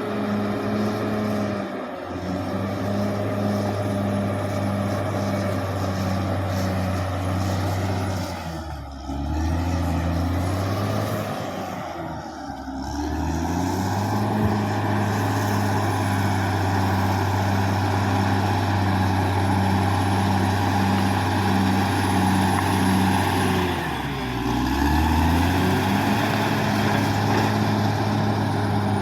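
Caterpillar D6R XL bulldozer's diesel engine running steadily. Its pitch dips briefly and comes back up three times: about nine seconds in, again at about twelve seconds, and near twenty-four seconds.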